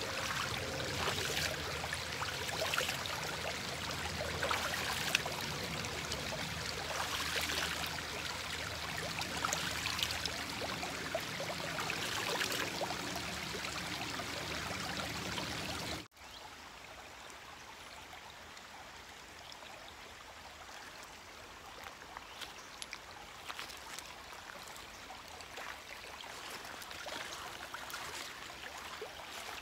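Stream water running and trickling steadily. About halfway through it cuts abruptly to a quieter, more distant trickle with a few light splashes.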